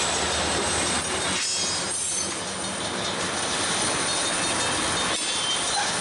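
Freight train cars rolling on the rails, a steady rumble and rattle of wheels with a faint high squeal of wheels on the rail.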